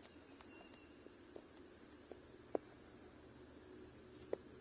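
Night insect chorus: a continuous, high-pitched shrill trill, with a couple of faint taps in the middle and near the end.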